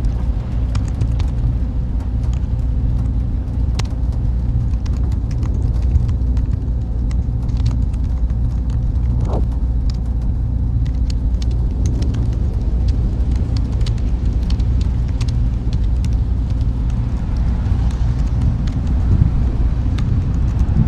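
Server room ambience: a steady low hum and rumble of machine fans, with faint scattered ticks and a brief rising chirp about nine seconds in.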